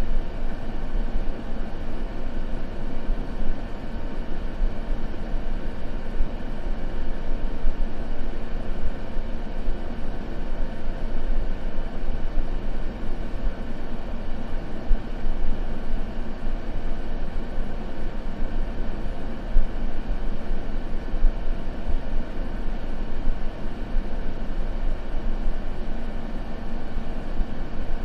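Continuous white noise for sleep, a steady even rush heavier in the low end than in the treble, without change or breaks.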